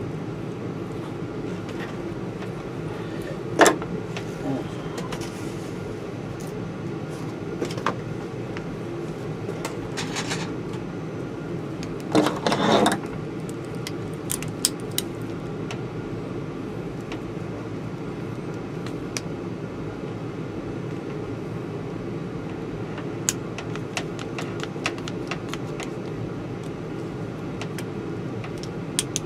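A steady low mechanical hum, with scattered small clicks and a short rattling clatter about twelve seconds in, from wires and small parts being handled during a wiring job.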